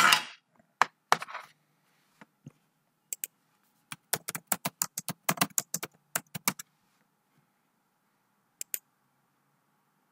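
Computer keyboard typing: a few keystrokes in the first second and a half, a quick run of keystrokes from about three to six and a half seconds in, then two more taps near the end.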